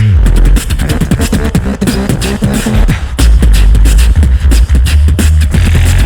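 Live beatboxing by a duo over a PA: fast vocal drum hits and clicks over deep, sustained bass, with a bass sound sliding down in pitch right at the start.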